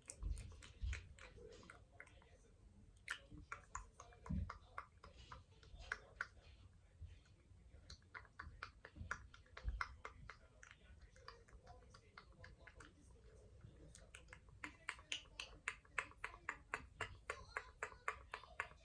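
Light tapping and clicking on makeup packaging, irregular at first, then a quicker run of taps, about three a second, in the last few seconds.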